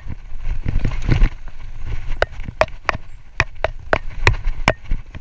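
Mountain bike rattling down a rough dirt trail: a string of sharp, irregular clacks and knocks from the chain and frame over bumps, over a steady low rumble of tyres and wind.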